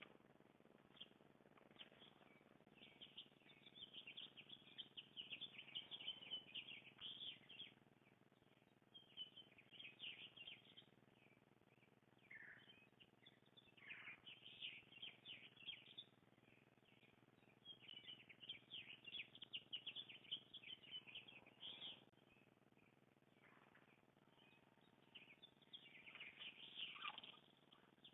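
Faint songbirds chirping in repeated bursts of quick, high chirps, with a few short falling calls mixed in.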